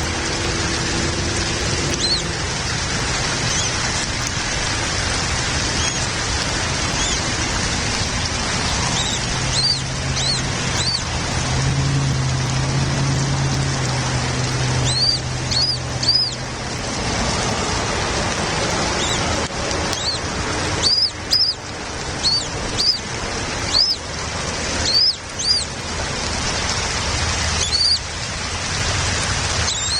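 Steady hiss like rain, with short, high bird chirps in loose clusters, most of them in the second half. A faint low hum sits under the hiss midway through.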